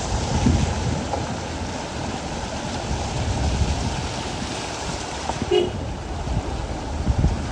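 Steady rushing noise of heavy rain and water, with wind buffeting the microphone. A short tone sounds briefly about five and a half seconds in.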